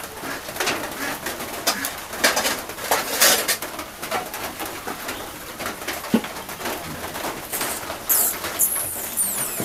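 Birds calling in the background, with a few quick high chirps near the end, among scattered short noises.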